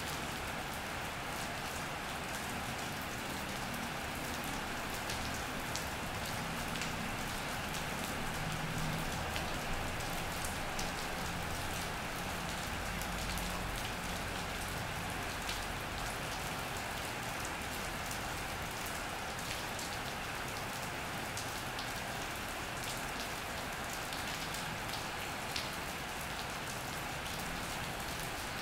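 Steady rain falling on an iron roof: an even hiss with many separate drop ticks.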